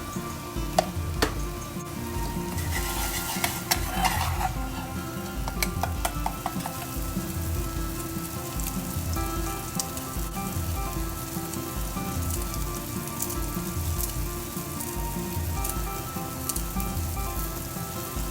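Food sizzling as it fries in a hot pan for a chicken and vegetable curry. A few sharp clicks come in the first seconds, and the sizzle swells louder about three seconds in.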